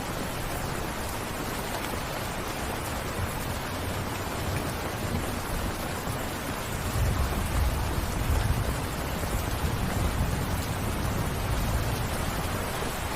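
Steady rain falling, an even hiss of drops. About halfway through a low rumble swells up and then eases off near the end.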